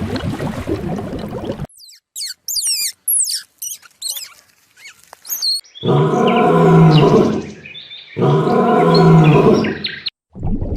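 Animal calls: a run of quick, high whistling chirps that glide up and down, then two long, loud, low calls, each about two seconds, with a short pause between them.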